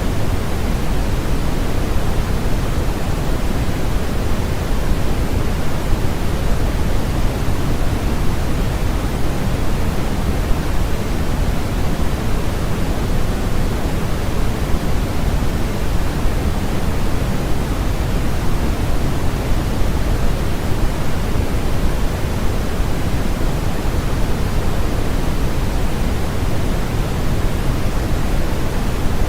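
Steady, unchanging synthetic noise sleep sound, a smooth even hiss-and-rush with no events in it. It is weighted toward the low end, fading in the treble, so it is closer to pink noise than to flat white noise.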